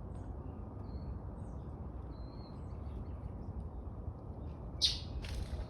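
Steady low outdoor rumble with faint high bird chirps, then near the end two short, harsh bird squawks.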